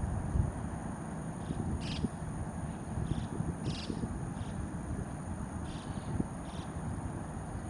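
Wild birds on a tidal flat giving short, high calls, about ten of them at irregular intervals, over a steady low outdoor rumble.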